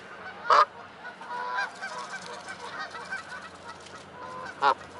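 Geese honking: two loud, short honks, one about half a second in and one near the end, with fainter calls from other waterfowl in between.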